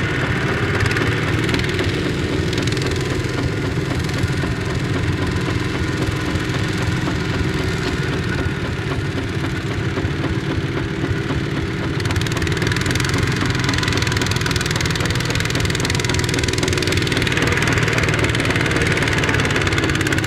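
Small Kubota ZT155 single-cylinder diesel tractor engine running steadily, getting louder about halfway through.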